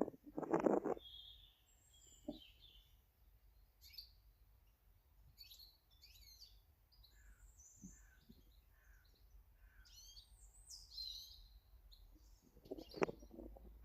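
Small garden birds calling and singing, many short high chirps and song phrases one after another. A few dull knocks come just after the start and again near the end.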